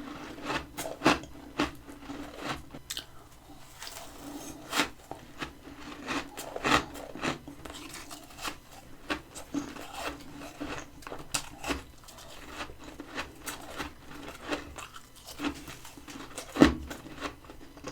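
Close-miked biting and chewing of freezer frost: irregular crisp crunches and crackles, the loudest crunch near the end.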